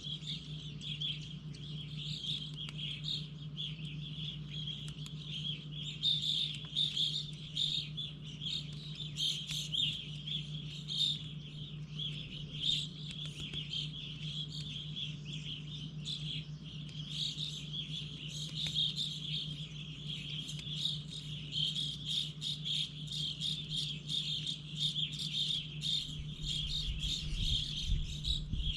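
Wild songbirds chirping continuously, many short overlapping calls in a busy chorus, over a steady low hum.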